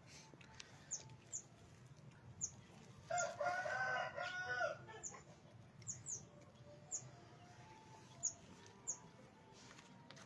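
A rooster crows once, about three seconds in, for under two seconds. Small birds give short, high chirps every second or so throughout.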